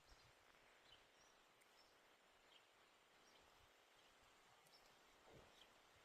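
Near silence: faint outdoor ambience with a few faint, brief high chirps and a soft thump about five seconds in.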